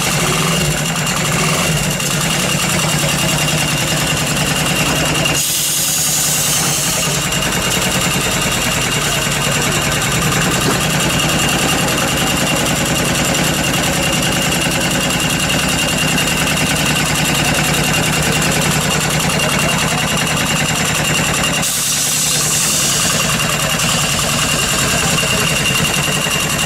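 Kubota diesel engine from a refrigeration unit, fitted in a custom motorcycle, idling steadily with a fast, even diesel clatter. Twice, for about two seconds each, a hiss rises over it.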